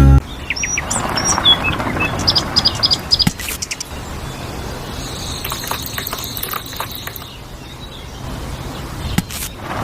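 Small birds chirping, a run of short high chirps in the first few seconds, over a steady low outdoor background noise with a few sharp clicks.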